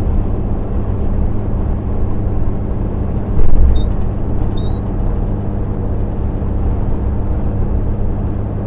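Lorry engine and road noise heard from inside the cab while cruising: a steady low drone. About three and a half seconds in there is a brief louder thump, followed by two short high chirps.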